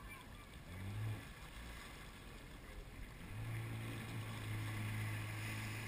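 Jet ski engine running at a low, steady speed, coming in about halfway through after a short hum near the one-second mark, over faint wind noise.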